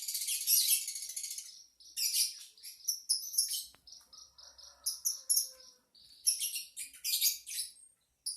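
Lovebird singing: a long, buzzy high trill in the first second and a half, then bursts of rapid, high-pitched chirps.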